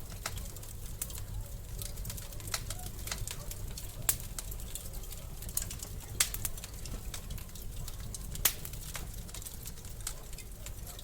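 Wood fire burning in a fireplace: a steady low rumble of flames with frequent sharp crackles and pops, three of them louder, about four, six and eight and a half seconds in.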